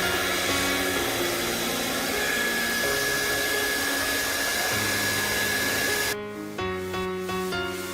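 Hot-air blower running steadily under background music, switched off about six seconds in, leaving the music playing alone.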